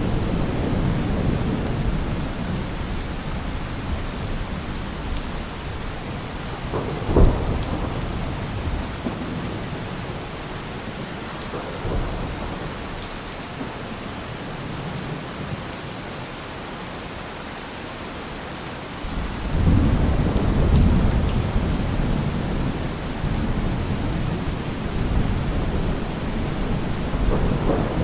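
Thunderstorm: steady heavy rain with rolling thunder. A short sharp thunderclap comes about a quarter of the way in, and a long, loud rumble of thunder builds about two-thirds of the way through and slowly dies away.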